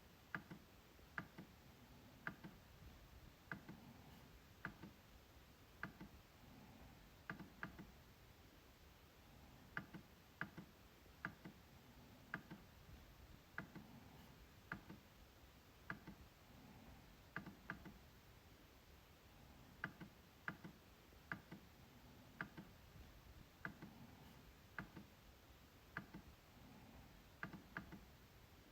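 MacBook trackpad being clicked: sharp, short clicks at an uneven pace of about one or two a second, some in quick pairs.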